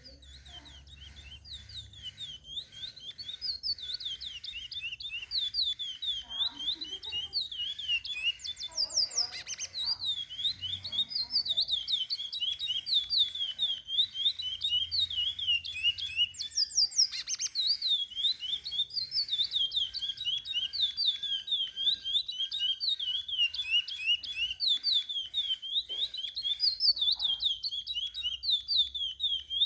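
Curió (chestnut-bellied seed finch) singing a continuous run of quick, swooping whistled notes, the kind of song used to tutor young curiós. It fades in over the first few seconds.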